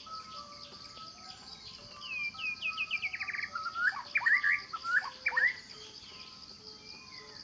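Wild birds singing and calling over a steady, high-pitched insect drone. A quick run of descending whistled notes comes about two seconds in, followed by sharp sweeping calls from about four to five and a half seconds, which are the loudest part.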